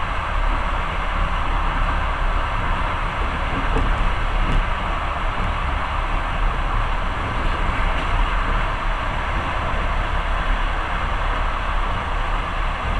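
Long-distance passenger train running at speed, heard from inside the carriage: a steady rumble and rush of the wheels on the rails, with a couple of faint clicks about four seconds in.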